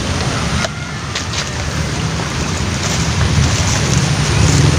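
Steady rain falling on a lake's surface, a loud even hiss, with wind rumbling on the microphone.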